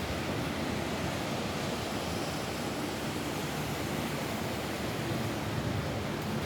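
Steady rain falling on a roof: an even, unbroken hiss of rainfall.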